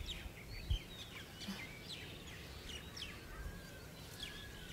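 Many small birds chirping, with short, quick, mostly falling calls over a low background rumble. A brief low thump comes just under a second in.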